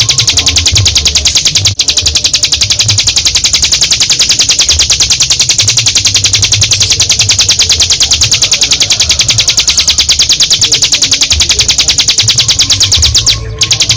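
Ciblek gunung singing a long, very rapid trill ('ngebren'), a fast, even run of high notes. It breaks off briefly about two seconds in and stops shortly before the end.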